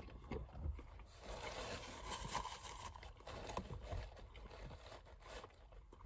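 A person biting into a Whopper burger, a short sharp sound right at the start, then faint chewing with scattered small clicks and rustles.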